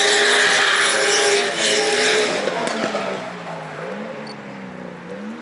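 Drift cars on the track: engines at high revs with screeching tyres, loud for about the first two and a half seconds, then fading. What remains is a fainter engine whose pitch rises and falls.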